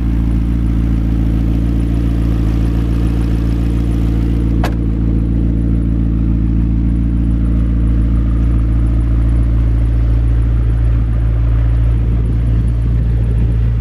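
McLaren 650S Spyder's twin-turbo V8 idling steadily with a deep, even hum, and a single sharp click about four and a half seconds in.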